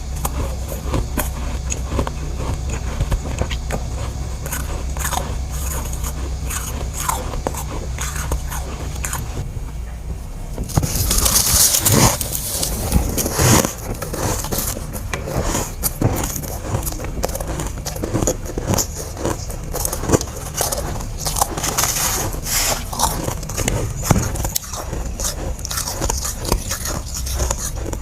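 A person biting and chewing chunks of freezer frost close to the microphone: a dense run of crisp crunches and crackles, louder and sharper from about ten seconds in. A steady low hum runs under the first third.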